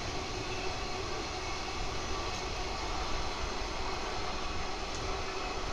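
Empty container flatcars of a freight train rolling past, a steady noise of steel wheels running on the rails.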